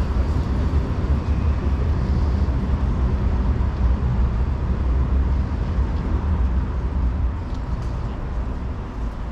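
Steady low rumble of city street traffic, heavy in the bass with an even wash of noise above it.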